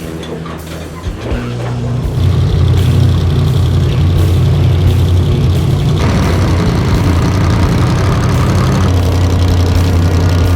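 Trophy truck engine running loud and steady at high revs. It rises sharply about two seconds in, and the sound jumps abruptly about six seconds in.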